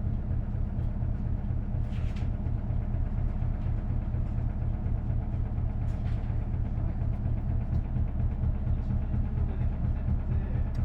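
Isuzu Erga city bus's V8 diesel engine, heard from inside the cabin, running steadily under way with a low drone. A couple of brief clicks or rattles come about two and six seconds in.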